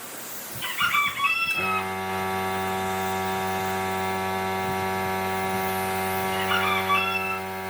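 A bird calling twice, with short wavering cries about a second in and again near the end. From about a second and a half in, a steady hum of several level tones sets in under the calls.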